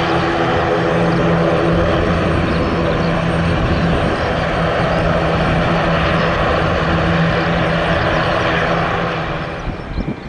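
Airliner engines running loud and steady, a dense noise with a strong low hum and a band of steady tones, fading over the last second or so.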